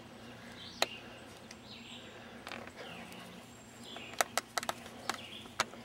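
Faint bird chirps repeating every second or so, over a low steady hum. A few sharp clicks come one after another about four to five seconds in.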